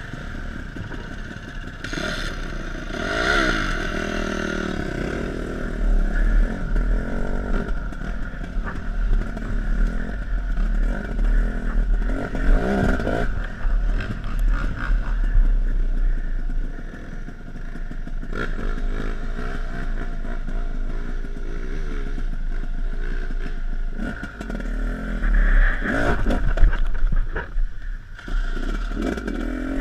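Off-road dirt bike engine revving up and down as it is ridden over rough ground, with clattering and knocks from the bike working over the terrain.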